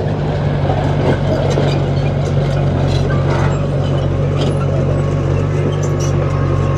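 Heavy diesel engine of a construction machine running steadily, with scattered sharp clicks and clanks over the engine hum.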